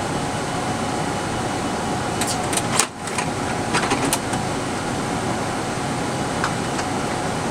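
Steady air-conditioning hiss and hum inside a parked Boeing 787 Dreamliner, with a few light clicks about two to four seconds in and a brief dip in the sound about three seconds in.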